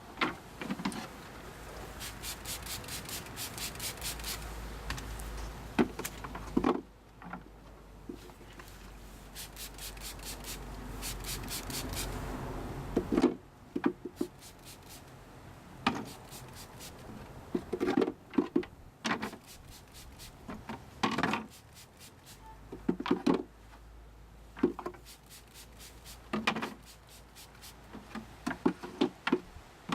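Wooden beehive frames and boxes being handled, knocking and scraping against each other, with several short runs of rapid clicking.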